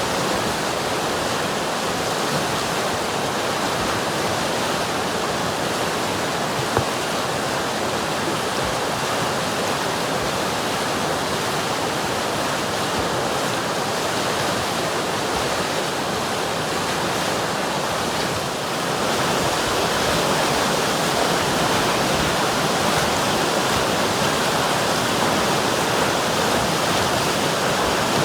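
River water rushing in a steady, even flow. There is a single faint click about seven seconds in, and the rush gets slightly louder about two-thirds of the way through.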